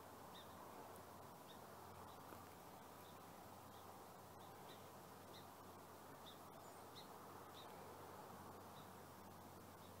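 Near silence outdoors, with a small bird faintly repeating a short high chirp about every two-thirds of a second.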